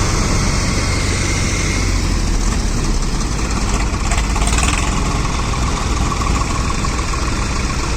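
Diesel tractor engine idling with a steady, loud, low rumble.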